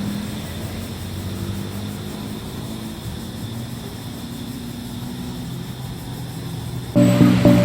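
A steady, low engine drone. Loud music with sharp plucked notes cuts in suddenly near the end.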